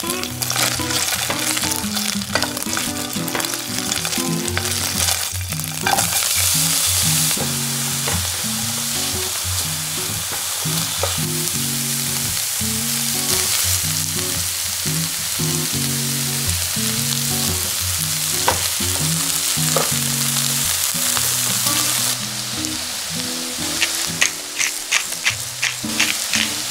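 Butter sizzling and frying with chopped onion in a pan, a steady hiss with sharp crackles near the end. Background music plays under it.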